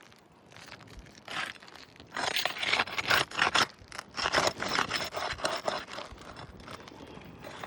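Asphalt roof shingles being pried and pulled loose: irregular dry scraping and tearing, faint at first and loudest from about two seconds in.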